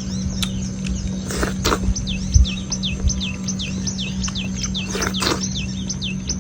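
A bird chirping over and over in short falling notes, about three a second, over a steady low hum. A few brief rustling noises come through, with a dull thump about two and a half seconds in.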